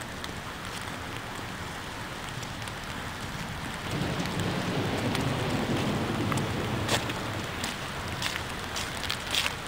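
Steady rain, with a low rumble of thunder swelling about four seconds in and scattered sharp patters of drops in the second half.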